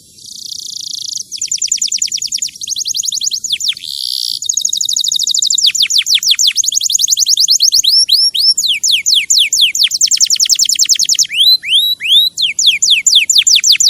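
A songbird singing a long, loud song of rapid, repeated, high downward-sweeping notes. There are a couple of buzzy notes in the first few seconds and slower hooked notes near the end.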